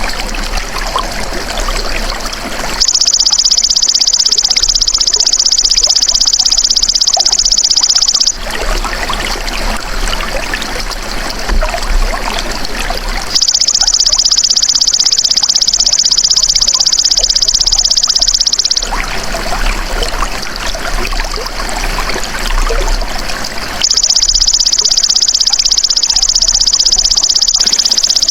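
Belalang emas (golden grasshopper) insect calling in three long, high, even buzzing trills of about five seconds each, starting about three seconds in, halfway through and near the end, over a steady background of trickling water.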